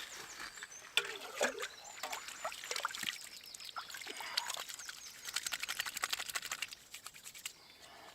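Small campfire of kindling crackling and snapping in quick irregular pops, thickest about five to seven seconds in, then dying down near the end.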